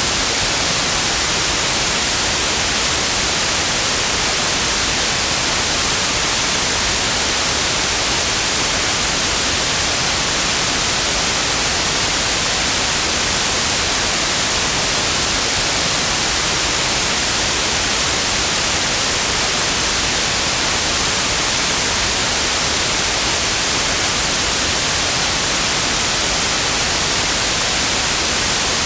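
Steady, unchanging white noise: an even hiss spread across all pitches, strongest in the highs.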